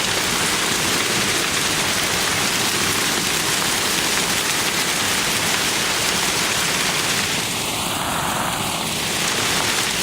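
Heavy hail with rain coming down hard on the yard and surrounding surfaces: a dense, steady hiss. Near the end the sound briefly changes tone in a sweep.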